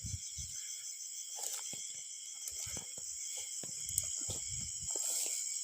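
Crickets and other insects chirring steadily and high-pitched, with irregular low thumps and rustling of footsteps moving through the garden.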